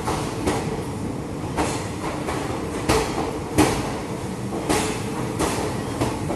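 Passenger train running on the track: a steady rumble of the coaches, with sharp wheel clacks and knocks at irregular intervals as the wheels pass over rail joints and points.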